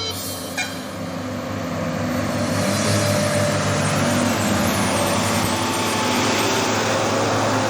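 A heavy truck's diesel engine running with road noise as it drives, growing louder over the first few seconds and then holding steady.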